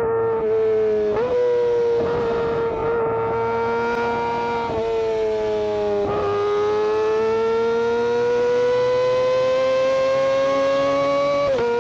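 Kawasaki Ninja ZX-25R's 250 cc inline-four engine and exhaust running at sustained high revs, a high, steady engine note. The pitch shifts abruptly a few times and climbs slowly through the second half before dropping back sharply near the end.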